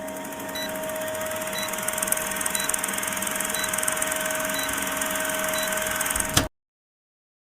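A machine running with a steady hum and hiss, a faint short beep about once a second; it cuts off abruptly about six and a half seconds in.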